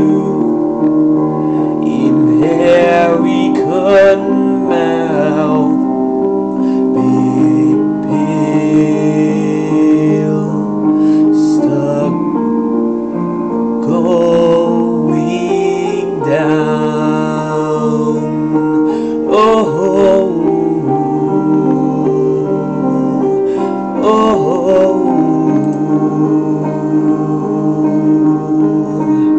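Slow piano ballad accompaniment with sustained chords. A voice sings a few long, wavering notes now and then, without clear words.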